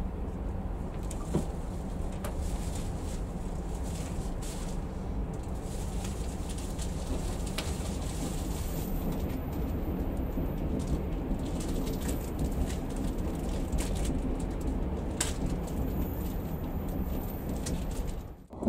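An oncoming 381-series limited express passing close alongside a stationary train, heard from inside the cab: a steady low rumble that swells a little as it goes by, with a few scattered clicks.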